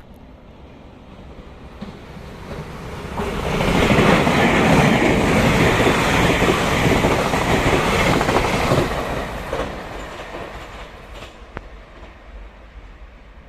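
A train passing by on rails, growing louder over the first few seconds, loudest in the middle, then fading away as it recedes.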